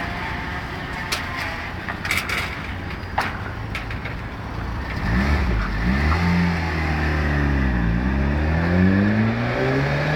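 Citroen C2 with a custom full stainless-steel exhaust system, idling at first. About halfway through it is revved: the engine note climbs, dips and climbs again.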